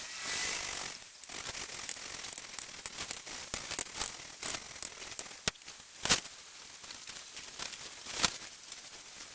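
Valves being lapped into a Mini 1293 cylinder head by hand with grinding paste: gritty scraping and a stream of irregular small clicks, with two sharper knocks about six and eight seconds in.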